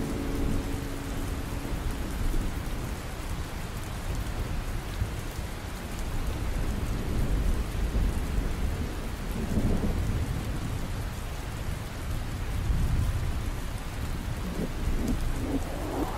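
Steady rain ambience with low rolling thunder that swells and fades every few seconds. Near the end a rising whoosh begins.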